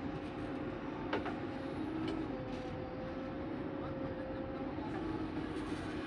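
Heavy diesel earth-moving machinery running steadily, a low rumble with a steady whine over it; a sharp click about a second in.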